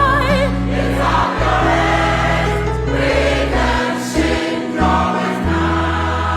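Gospel music: a choir singing over long held low accompaniment notes.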